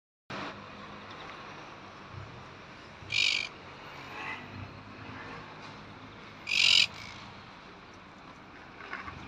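A bird gives two loud, harsh calls, each about half a second long, a few seconds apart, with a few fainter chirps between them over a steady background noise.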